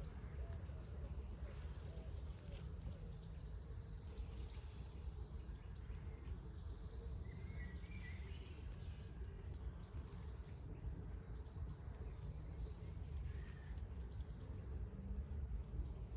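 Faint outdoor garden ambience: a steady low rumble with a few short bird chirps, one cluster about halfway through and another near the end.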